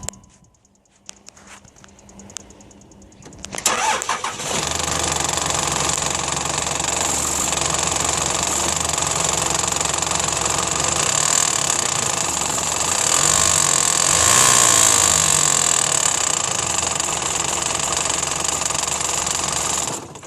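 A 5.9 Cummins straight-six turbodiesel starts about four seconds in and runs with a loud, steady mechanical noise heavy in high pitches, from a failed exhaust-brake vacuum pump. It shuts off near the end.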